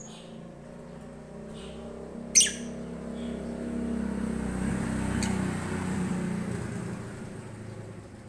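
A white-and-blue lovebird gives one loud, sharp chirp about two seconds in, with a few fainter chirps around it. Behind it a low engine hum swells and fades, as of a vehicle passing.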